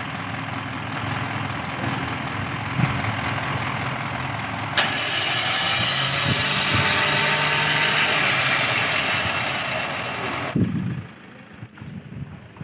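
An engine running steadily; about five seconds in a louder rushing hiss starts suddenly, and it cuts off abruptly near the end, leaving it much quieter.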